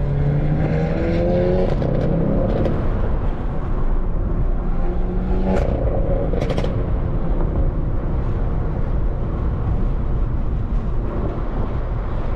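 Mercedes-AMG GT63 S twin-turbo V8 accelerating from inside the cabin, its pitch rising over the first two seconds and again about five seconds in. A few sharp exhaust cracks come around six seconds in.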